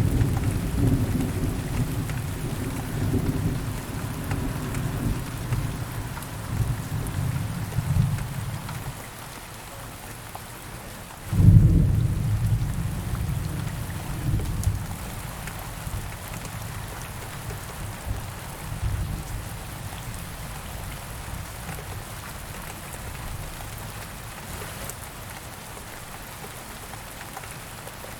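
Steady rain falling during a thunderstorm, with thunder. A rumble dies away over the first nine seconds or so. A sudden thunderclap about eleven seconds in rolls off over a few seconds, and a faint rumble follows later.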